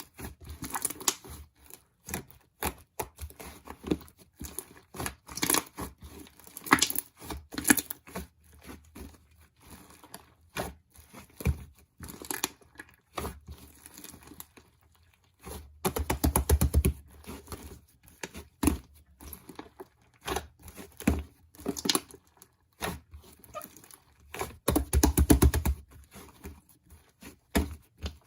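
Irregular crinkling and crackling made up of many short clicks and crackles, with two denser, louder stretches about sixteen and twenty-five seconds in.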